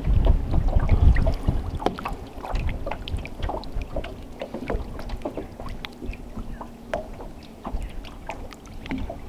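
Wind buffeting the microphone for the first second or so, then scattered light clicks and small splashes of water around a small boat, with a faint steady hum in the middle.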